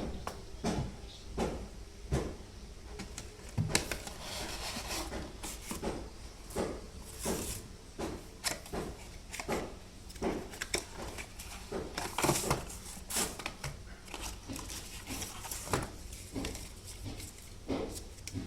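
Irregular knocks, clicks and rustling of objects being handled, over a steady low hum.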